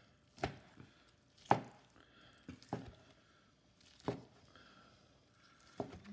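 A Chinese cleaver slicing cooked turkey breast, its blade knocking on the cutting board about six times at uneven intervals.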